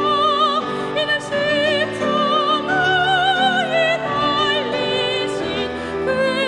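Church choir singing a sacred anthem with instrumental accompaniment, a high voice with strong vibrato carrying the melody over sustained lower notes.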